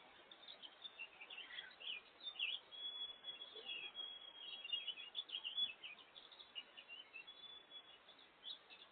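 Small songbirds chirping: many short, high, overlapping chirps, busiest through the middle and thinning out near the end, over a faint steady hiss.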